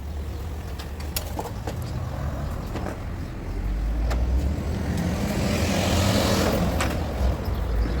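A motor vehicle running and passing close by: a low engine rumble with a rushing noise that swells to a peak about six seconds in, with scattered sharp taps.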